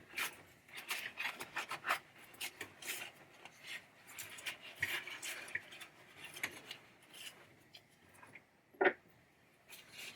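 Metal coil bracket parts of a pinball trap door mechanism being scrubbed clean with naphtha: quick, irregular rubbing and scraping strokes, with one brief louder sound near the end.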